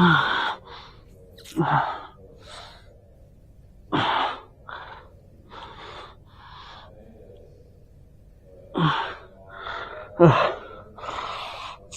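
A person's gasps and heavy breaths: about five loud, short gasps with softer breaths between, of the kind let out while the back and shoulders are pressed on or cracked.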